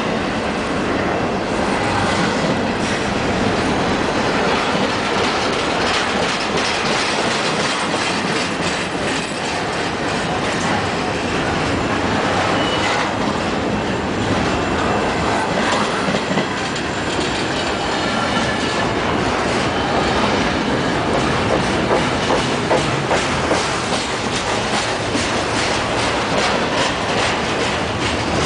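Canadian Pacific double-stack container train's well cars rolling past at close range: a steady rumble of steel wheels on rail, with quick clickety-clack from the wheels over the joints, more frequent in the second half.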